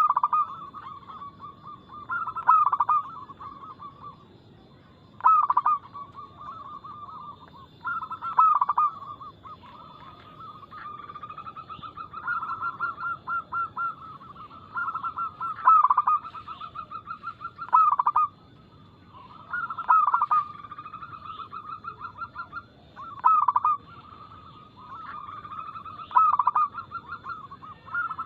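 Zebra doves cooing: phrases of rapid rolling coos repeated every two to three seconds, each punctuated by a louder, sharper note.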